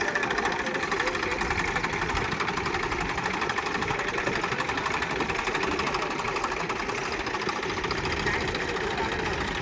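Diesel tractor engine running steadily with a fast, even clatter.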